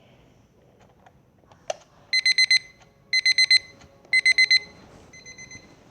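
Electronic alarm beeping in three quick groups of four high beeps, about a second apart. Fainter beeps follow near the end. A single click comes just before the first group.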